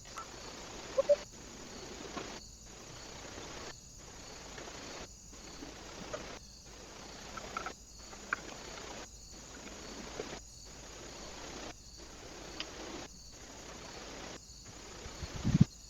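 Steady hiss from a trail camera's microphone, cut by short silent gaps about every second and a half, with a few faint clicks and a louder low thump near the end.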